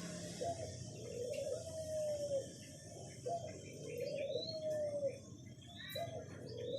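A dove cooing over and over: long, low, arched coos about every second and a half. Short higher chirps from another small bird come in between them.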